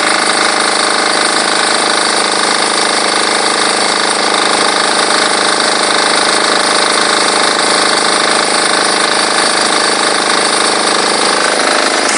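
Diesel-engine-driven high-pressure washer running steadily, with a loud even hiss over the engine note.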